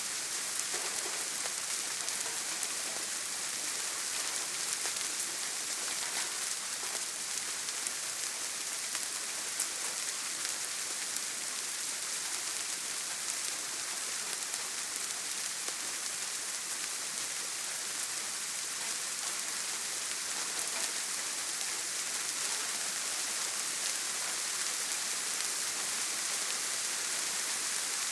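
Heavy rain on a tin roof: a steady, dense hiss with faint scattered drop ticks.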